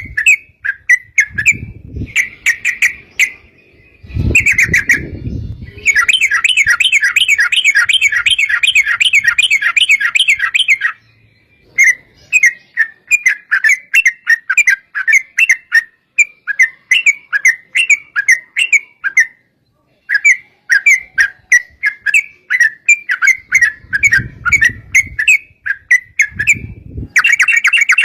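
Yellow-vented bulbul (trucuk) singing a rapid, bubbly chatter of repeated notes. About six seconds in it breaks into a long unbroken trill (a 'ropel') lasting around five seconds, then returns to choppy phrases with short pauses. A few brief low rumbles come and go underneath.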